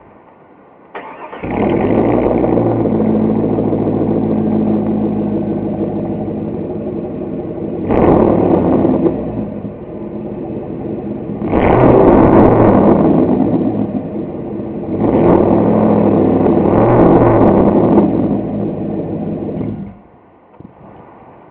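2002 Chevy Silverado's 5.3-liter V8 running on straight pipes with an X-pipe after the catalytic converters. It fires up about a second in and idles, is blipped once, then is revved twice to about 3,000 rpm, and falls quiet near the end.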